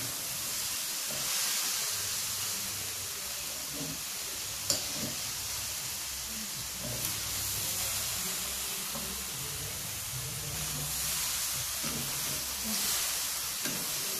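Spiced stir-fry of shellfish, tempeh and tofu sizzling in an aluminium wok while a metal spatula stirs it, a steady hiss throughout. One sharp click stands out about five seconds in.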